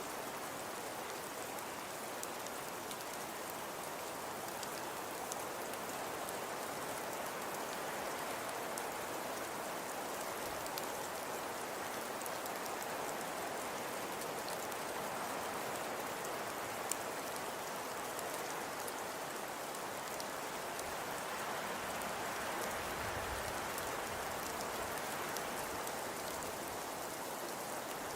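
Fireplace crackling: a steady soft hiss of burning wood with scattered small pops and crackles, one slightly sharper pop partway through.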